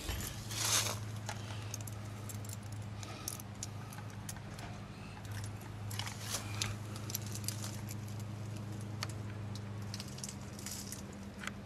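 Scattered light clicks and rattles over a steady low hum, the loudest clatter about a second in.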